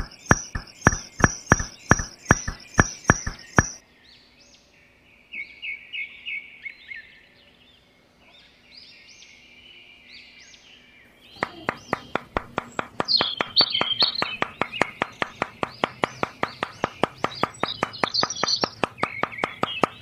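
Bird chirps over a fast, regular clicking. The clicking runs about three a second at first, stops about four seconds in, and returns faster, about five a second, near the eleven-second mark.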